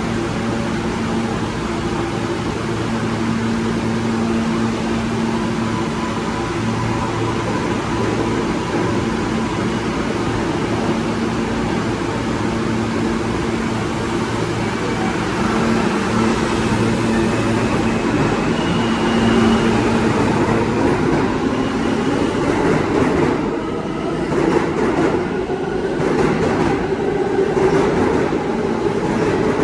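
A New York City subway train on the L line: a steady electric hum, then from about two-thirds of the way in a rising motor whine as the train gets moving, and clattering wheels over the rail joints near the end.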